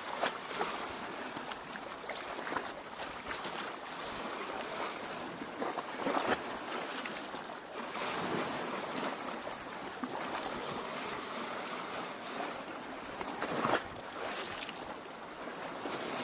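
Small waves lapping at a lake shore: a steady wash of water with irregular little splashes.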